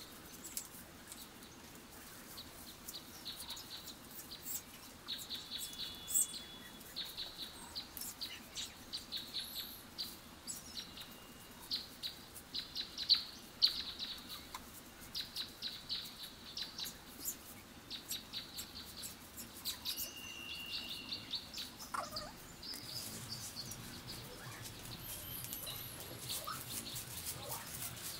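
Small birds chirping in repeated quick trains of short, high notes, over a soft, irregular crackle and rustle of dry palm-leaf strips being handled and woven.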